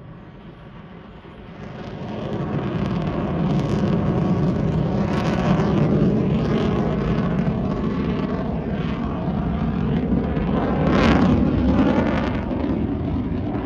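Aircraft flying past at an air show: a loud engine roar that swells in about two seconds in and stays loud, with the shifting, sweeping tone of a pass overhead.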